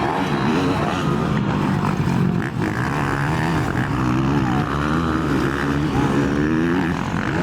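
Motocross bike engines running, their pitch rising and falling with the throttle.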